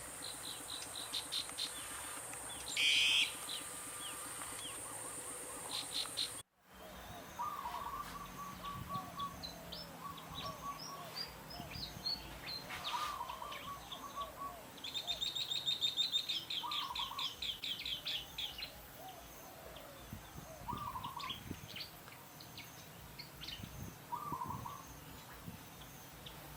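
Several wild birds chirping and singing, over a steady high drone for the first few seconds. The sound cuts out for an instant about six seconds in, then a different set of calls follows: a short warbled call repeated every three or four seconds and a fast, rattling trill in the middle.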